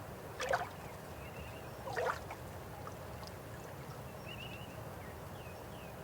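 River water flowing with a steady low rush, with two short splashing gurgles about half a second and two seconds in.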